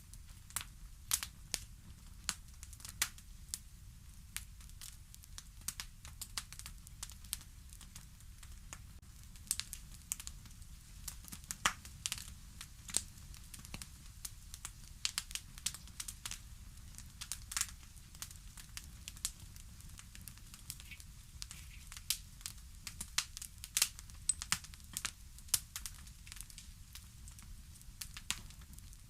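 Wood fire crackling: irregular sharp pops and snaps, some louder than others, over a low steady rumble.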